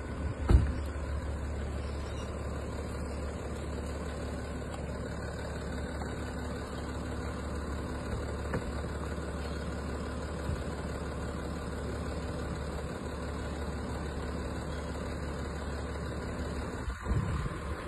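A vehicle engine idling steadily, with a single sharp thump about half a second in.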